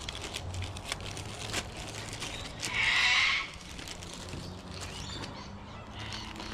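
Small plastic and metal parts of a dent repair kit being handled, with scattered light clicks and taps. About three seconds in there is one loud high squeak lasting under a second.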